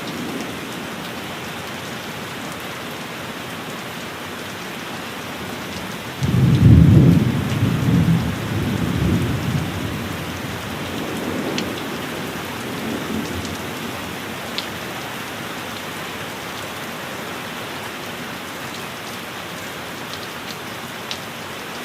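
Steady heavy rain with thunder: about six seconds in, a sudden loud clap breaks into a low rumble that rolls on for several seconds, followed by a fainter second rumble.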